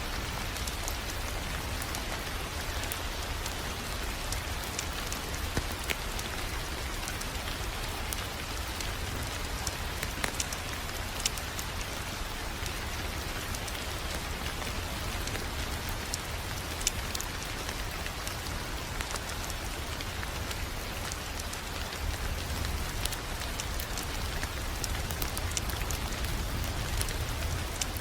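Fireplace fire crackling: scattered sharp pops and ticks over a steady hiss and a low rumble.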